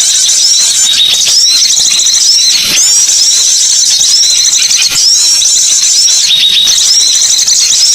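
Loud, high-pitched songbird calls in a phrase of quick arching, chattering notes, repeated about once a second.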